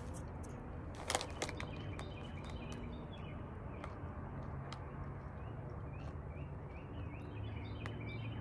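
Small songbirds chirping in short, repeated high notes over a steady low hum, with a couple of sharp clicks about a second in.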